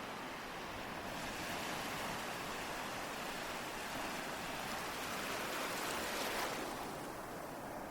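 Ocean waves washing on a shore: a steady rush of surf that swells about a second in, is loudest near the end, then falls away.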